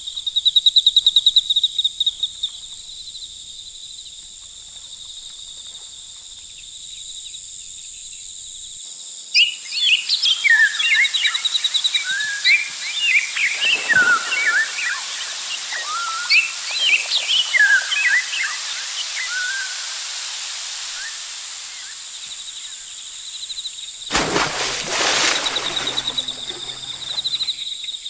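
Wildlife ambience. A steady high insect drone runs throughout and opens with a loud rapid trill. About ten seconds in, many birds chirp together for roughly ten seconds, and a short burst of rushing noise comes near the end.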